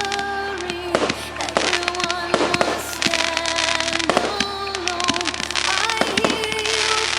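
Firework shells bursting and crackling in rapid succession, many sharp bangs a second, over music with held melody notes.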